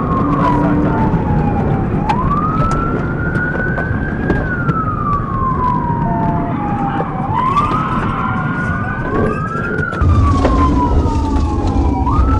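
Police car siren on a slow wail, rising and falling in pitch every few seconds, with a second siren overlapping near the end, over engine and road noise.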